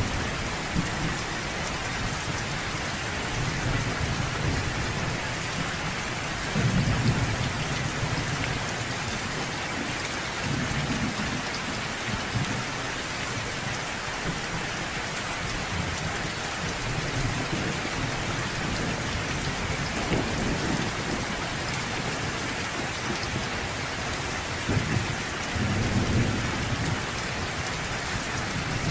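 Steady rain falling, with low rolls of thunder rumbling in and out several times, the loudest about seven seconds in and another near the end.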